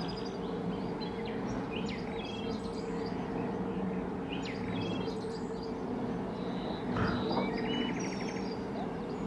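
Small birds chirping, with many short high calls and a fast trill about eight seconds in, over a steady low hum. A soft thump comes about seven seconds in.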